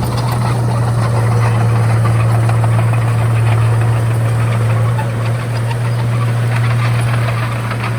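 Komatsu D31A bulldozer's diesel engine running steadily, a constant low hum with a dense rattle over it.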